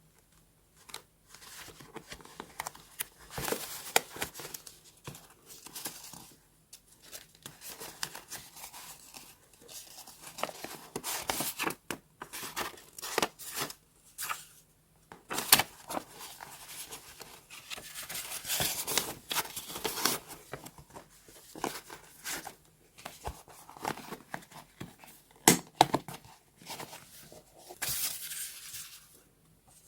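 Paper being torn and crinkled by hand in a run of irregular rustling strokes.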